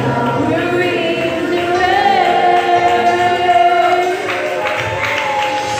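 Youth choir singing a gospel song in parts, voices holding long notes that glide between pitches.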